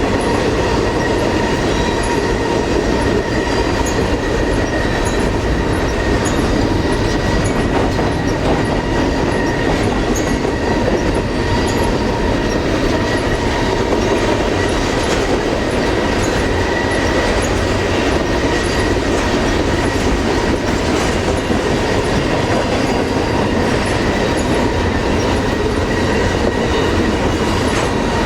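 Double-stack container train rolling past: a steady rumble of steel wheels on rail with clickety-clack over the joints, and a faint, steady high squeal from the wheels.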